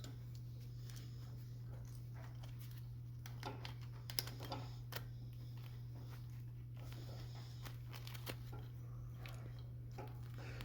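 Faint clicks, taps and rustles of steel wire-rope strands being handled and tucked by hand while splicing a cable eye, a few sharper clicks in the middle, over a steady low hum.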